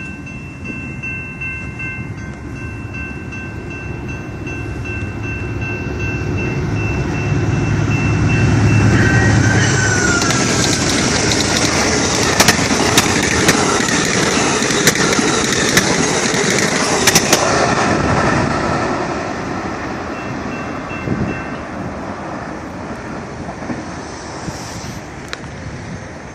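Amtrak GE Genesis P42DC diesel locomotive and its passenger train passing at speed. The engine's low rumble builds, then comes a loud rush of the cars with regular clicks of wheels over rail joints, fading after about 18 seconds. Steady chiming tones sound through the approach.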